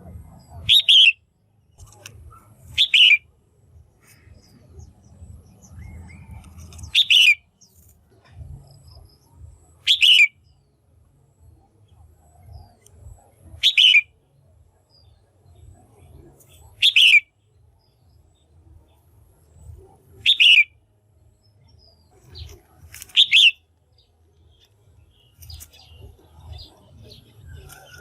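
Female red-whiskered bulbul calling: a short, loud chirping call repeated eight times, about every three seconds.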